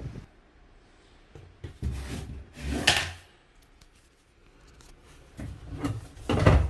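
Knocks and clatters of the washing machine's body being handled and opened, with the loudest clunk about three seconds in and another cluster of knocks near the end.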